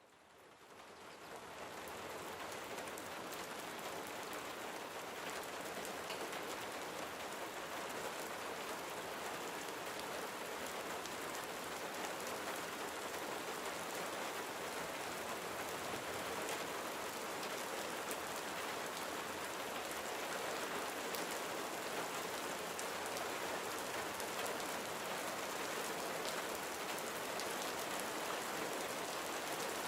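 Gentle steady rain pattering on surfaces, a dense even hiss of many fine drops, fading in over the first two seconds.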